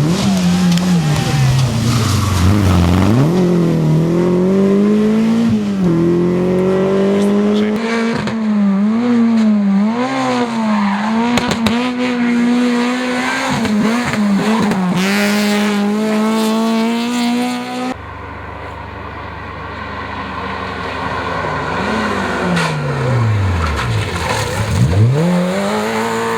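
Rally car engines under hard throttle, the revs climbing and dropping again and again through gear changes and throttle lifts. About eighteen seconds in, the sound cuts abruptly to another rally car whose engine note falls low, then climbs again as it accelerates away.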